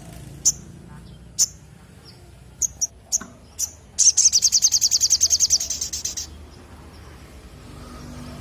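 A sogok ontong (little spiderhunter) calling. It gives half a dozen sharp, high single chips, then a fast, even trill of about nine notes a second that lasts about two seconds and stops a little past the middle.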